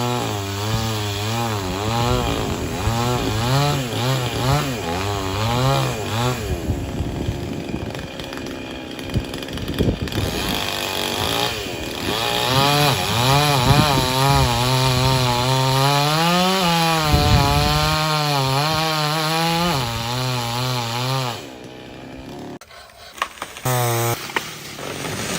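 Two-stroke chainsaw running hard through wood, its engine pitch wavering up and down as it loads in the cut, with one brief rise in pitch. Near the end the saw drops away, leaving a few knocks.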